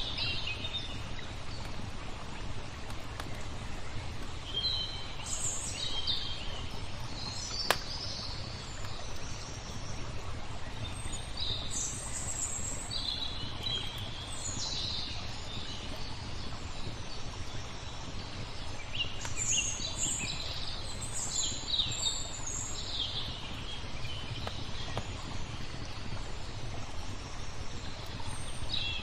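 Small birds chirping and twittering in scattered short phrases over a steady, low rushing background of water, with one sharp crackle from a wood fire about eight seconds in.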